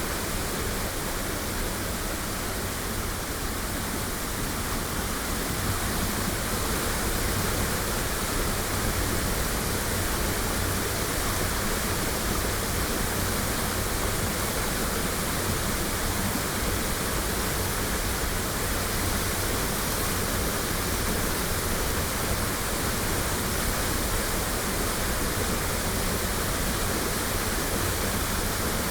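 Waterfall pouring: a steady, even rush of falling water that does not change, recorded binaurally close to the falls.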